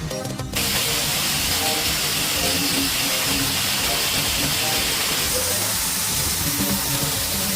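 A loud, steady hiss of a compressed-air tool spraying or blasting starts suddenly about half a second in, with background music underneath.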